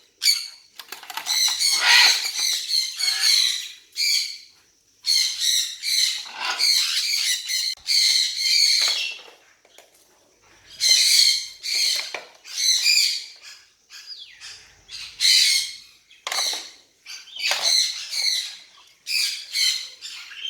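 Parrots squawking: harsh, shrill calls repeated in bouts of a second or two, separated by short pauses.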